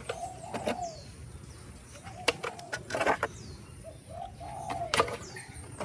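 Birds calling, with three rounds of low, dove-like coos and faint high chirps. Several sharp clicks and knocks, likely from hard plastic toy animals being handled, come in between.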